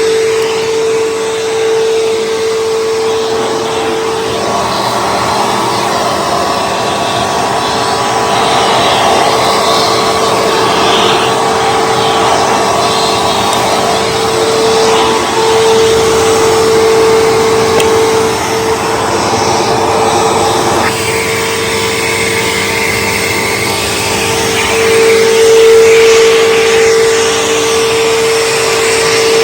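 Bissell PowerForce Bagged 3522 upright vacuum cleaner running: a steady motor whine over rushing air. The airflow sound changes and thins about two-thirds of the way through.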